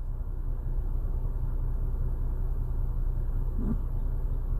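Steady low rumble, with a brief faint voice-like sound about three and a half seconds in.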